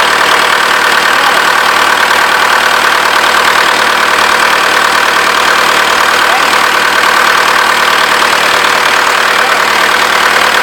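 Perkins L4 four-cylinder four-stroke diesel engine running steadily at a constant speed.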